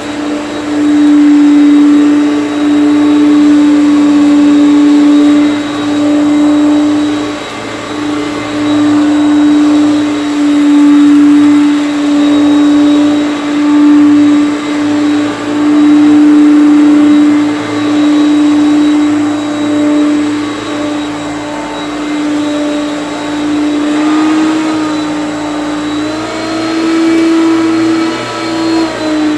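Hoover Concept One vacuum cleaner running, its motor giving a steady hum-whine that swells and eases in loudness every couple of seconds. Near the end its pitch rises slightly for a moment.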